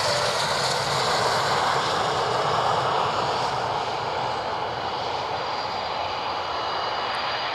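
Military jet aircraft engine noise: a loud, even rush that peaks about two to three seconds in and eases slightly, with a faint high whine showing toward the end.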